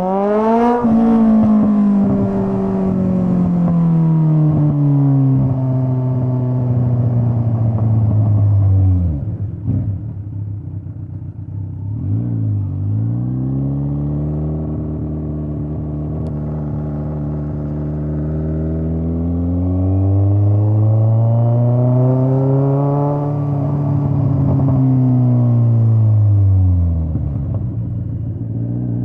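Straight-piped Kawasaki Z900 inline-four motorcycle exhaust while riding. The revs climb sharply at the start and then sag slowly. About nine seconds in the throttle closes and the engine drops low. It then pulls up again and holds steady, swells once more and falls away near the end before picking up again.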